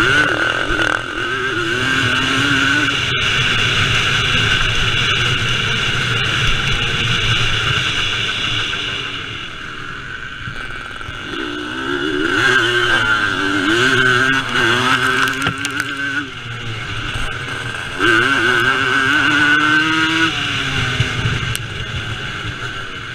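Vintage motocross motorcycle engines racing, revving up and dropping back again and again as the bikes go through the course. The engines are loudest in three passages, with a quieter lull in the middle and another near the end.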